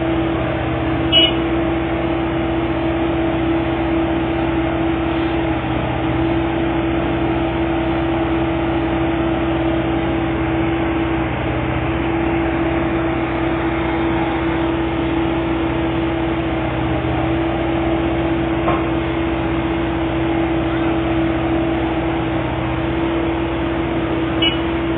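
A railway diesel engine running steadily: a constant drone with a strong steady tone over a lower hum, broken by a few short clicks.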